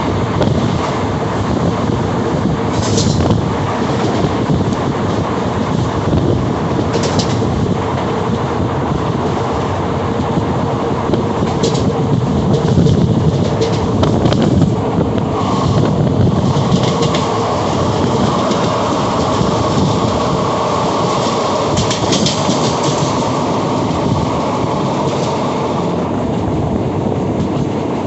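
Train running along the line, heard from inside a carriage: a steady rumble of wheels on the rails, with a few short, sharp high-pitched clicks from the wheels and track now and then.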